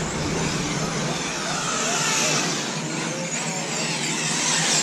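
Several nitro RC truggy engines running at once, a high-pitched whine whose pitch keeps rising and falling as the trucks rev and back off.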